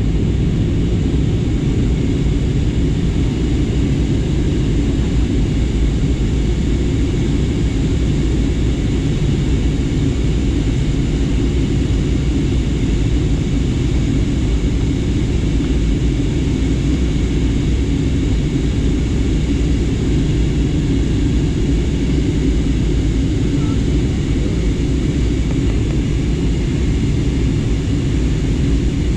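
Airliner cabin noise in flight: a steady, low roar of engines and rushing air that holds constant.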